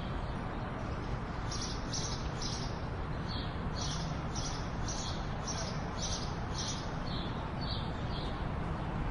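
Short, high, bird-like chirps repeating about twice a second over a steady, rumbling background noise; the chirps begin about a second and a half in and thin out near the end.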